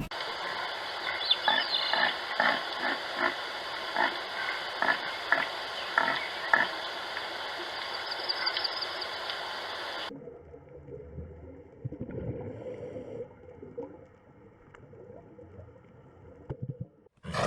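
Animal calls in two separate segments. First comes a run of short, repeated calls, roughly two a second, over a steady hiss, with a couple of brief high chirps. About ten seconds in, it cuts to quieter, lower sounds.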